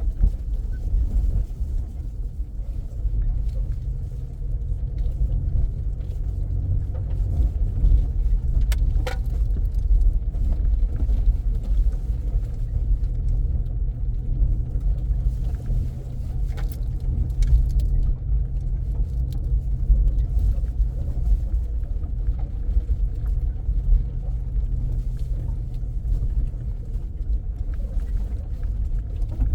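A car driving at a steady pace: an even low engine and road rumble with a steady hum, and a few light clicks, the clearest about nine seconds in.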